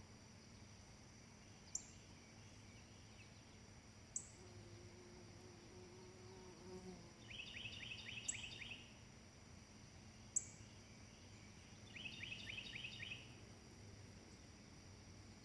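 Faint outdoor ambience: a bird gives two short trills of quick falling chirps, with a steady high insect-like hiss and a few sharp clicks.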